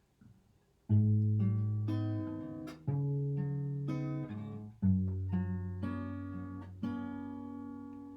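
Acoustic guitar playing a slow intro: chords strummed and left to ring out, a new chord every one to two seconds.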